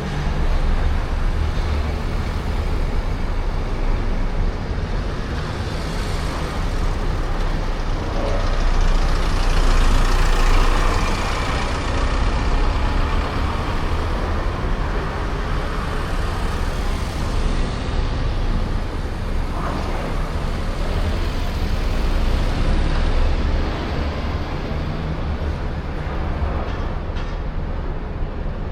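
City road traffic: a steady wash of passing vehicles with a heavy low rumble, swelling as a louder vehicle goes by about ten seconds in.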